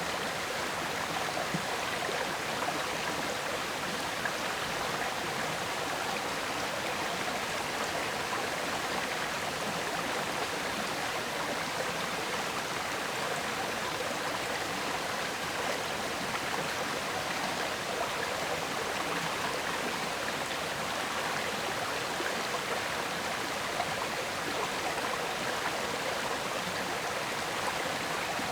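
River water flowing and gurgling over rocks, a steady rushing with no change.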